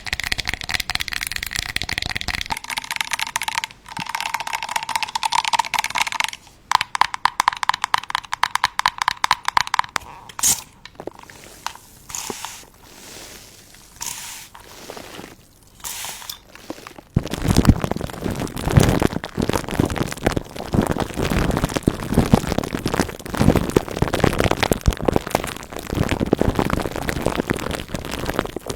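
Close-miked crackling and crunching of a paper piñata and candy, changing in character every few seconds. From about seventeen seconds in it becomes a dense, rain-like patter of candy.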